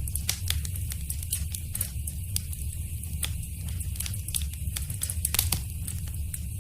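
Wood fire crackling in a fireplace: irregular sharp pops and snaps over a steady low rumble of the flames, with a quick run of louder pops about five seconds in.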